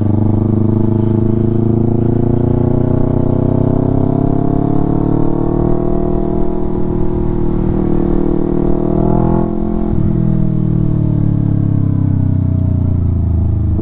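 Yamaha R3's 321 cc parallel-twin engine through an Akrapovic full-system exhaust, heard from the bike while riding. The note rises slowly as it pulls under throttle, then falls away off the throttle after about nine seconds, with few pops and bangs on the overrun.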